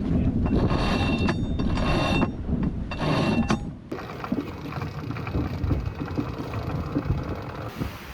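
Sailboat mainsheet being hauled in hard against strong wind, the hauling gear ratcheting and squealing in three spells of about a second each. After about four seconds this gives way to steady wind and water noise.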